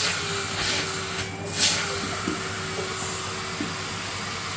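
Numatic Henry canister vacuum cleaner running steadily with a constant motor whine and rushing air, the airflow surging briefly about one and a half seconds in.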